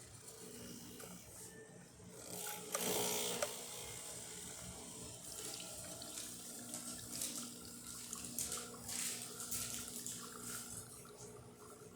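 Breville Dual Boiler's vibratory pump humming steadily as an espresso test shot pulls, with water running through the group. A louder rush of water and hiss comes about three seconds in.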